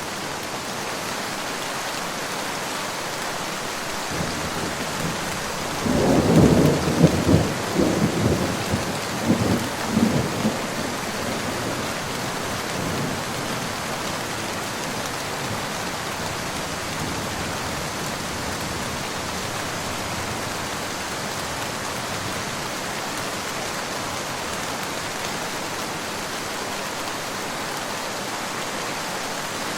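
Steady rain falling, with a roll of thunder about six seconds in that rumbles in several loud peaks for around five seconds and then dies away under the rain.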